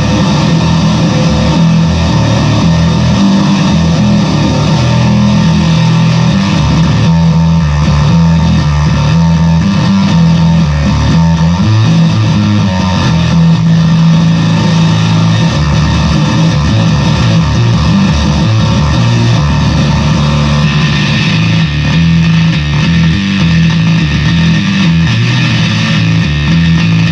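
Fender Squier VI six-string bass played through a fuzz pedal: loud, heavily distorted sustained notes, strongest in the low register, played continuously.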